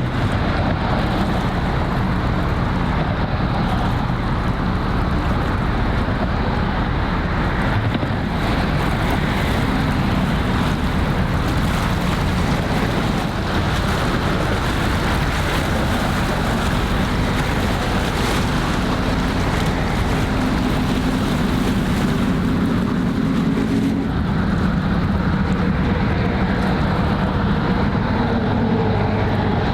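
Harbour ambience: wind noise on the microphone over the wash of water, with a low, steady engine hum from a ship underneath.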